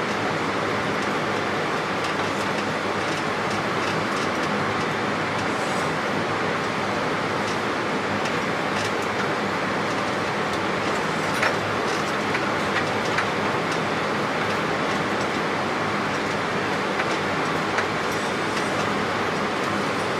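Steady rushing noise inside an airliner cockpit on final approach, the sound of airflow over the nose and of the aircraft's systems, with a few faint clicks.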